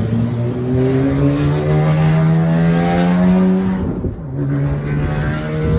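Loud race car engine accelerating hard, its pitch climbing steadily for nearly four seconds, then dipping briefly and climbing again.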